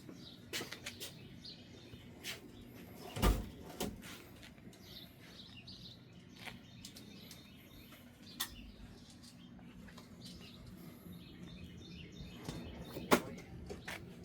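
Birds chirping faintly in the background, with a few sharp knocks and clicks of handling; the loudest knock is about three seconds in and another comes near the end.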